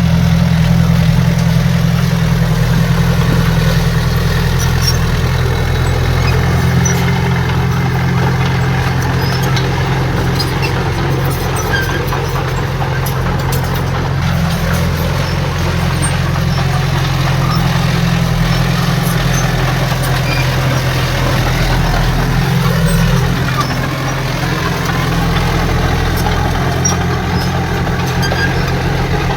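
Heavy earthmoving machine's diesel engine running steadily, with a deep, constant hum and no change in speed.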